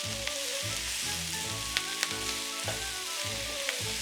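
Tomatoes and broccoli sizzling in a pan, with a few sharp clicks of a utensil about two seconds in.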